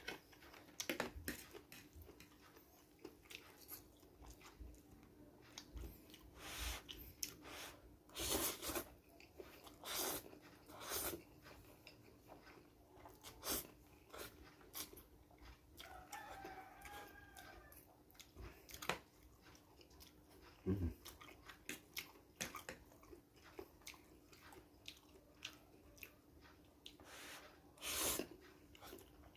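Close-miked chewing and wet mouth smacks of someone eating seafood fried noodles, with scattered sharp crunches and clicks, a few louder clusters, and a faint steady hum underneath.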